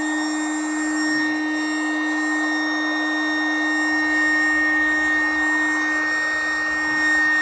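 Electric air compressor running steadily with a screaming whine while it inflates an inflatable boat.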